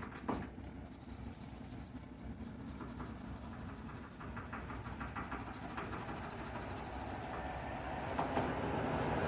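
Steady low engine rumble, with a sharp click shortly after the start and faint light ticks and taps over it, growing slowly louder toward the end.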